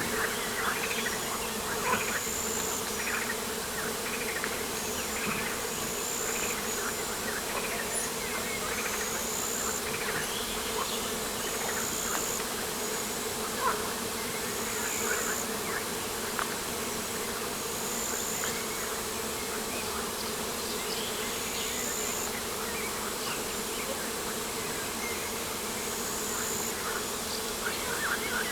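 Steady buzzing of insects, with a faint high chirp repeating about every two seconds and scattered short chirps over it.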